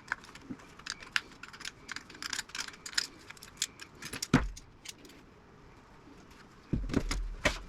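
Hand tools clinking and tapping against the metal parts of an old radio chassis as it is pried apart, with a louder knock about four seconds in and a few heavier knocks near the end.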